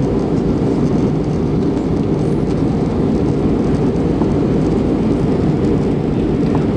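Steady airliner cabin noise in flight: a constant low roar of the jet engines and rushing air, heard from inside the passenger cabin.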